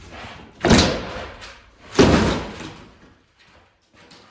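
Two heavy strikes about a second and a half apart, each dying away over about a second, as the divider wall is knocked apart during demolition.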